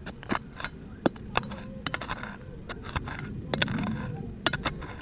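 Irregular sharp clicks and knocks with scraping, typical of a digging tool working into stony soil to recover a metal-detector find.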